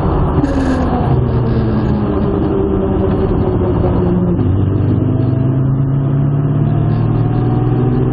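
Modified Jaguar E-type's engine, fitted with high-lift cams, pulling in third gear after braking, heard from inside the cabin. Its pitch climbs slowly as the car accelerates, over steady road and drivetrain noise.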